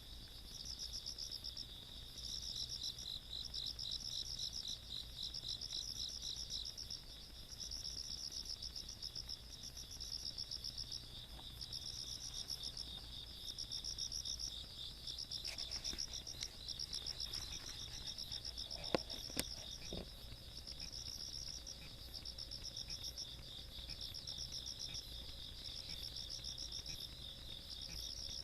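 Night insects of the countryside calling: one high, pulsed chirping song repeating in bursts of about a second and a half, over a steadier, slightly lower trill. Two brief sharp clicks come about two-thirds of the way through.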